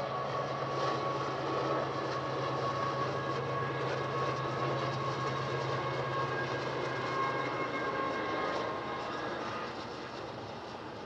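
Long double-stack container train rolling past: a steady rumble of the cars with a low drone and thin high whining tones. The drone fades and the sound eases a little near the end.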